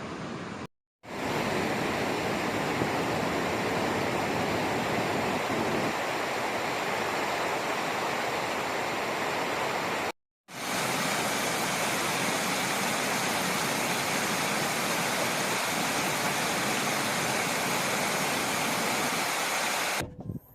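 Steady rushing noise of a mountain bike ride: wind and tyre noise on the rider's camera microphone. It drops to silence briefly twice, about a second in and about ten seconds in.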